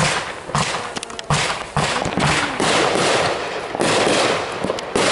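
Consumer aerial fireworks going off in quick succession: about eight sharp bangs, roughly one every half second, each trailing off into a crackling hiss.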